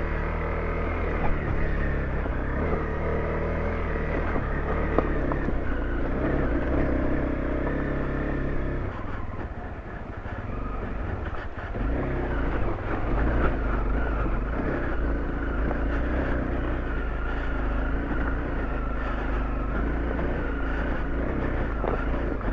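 Honda CRF motorcycle's engine running while riding. It eases off about ten seconds in and picks up again a couple of seconds later.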